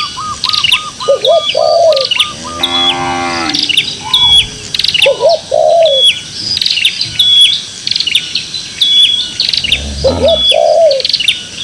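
Several birds calling repeatedly, one with a sharp high call about every second, another with a lower two-note arched call heard three times. A short cow moo comes about three seconds in.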